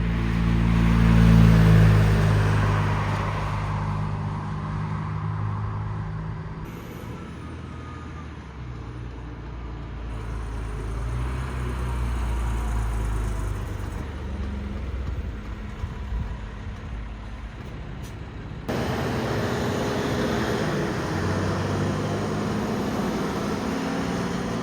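Heavy vehicle passing on the road, its engine hum swelling to loudest about a second and a half in and then fading, followed by more traffic noise that changes abruptly twice.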